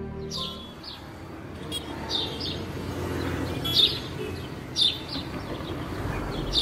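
Birds chirping: short, high calls repeating every second or so over a low, steady outdoor background hum.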